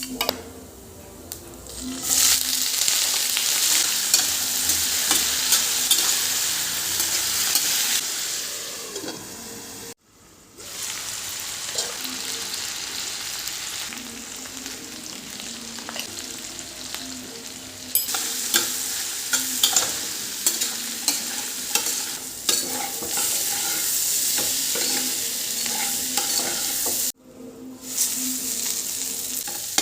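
Food frying and sizzling in a hot pan while a spatula stirs it, with intermittent scrapes and clicks of the utensil against the pan. The sound cuts out abruptly twice, then resumes.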